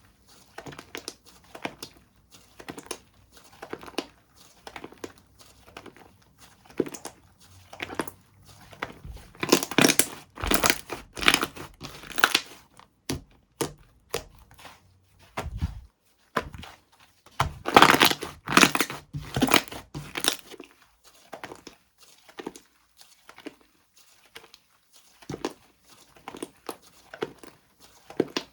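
Slime being squished and stretched by hand, crackling and popping with many small clicks. Louder, denser bursts of crackling come about ten and eighteen seconds in.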